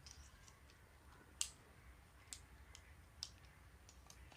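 Three faint, sharp clicks about a second apart, the first the loudest, from the plastic leg-section locks of a budget tripod being snapped as its legs are extended to full height.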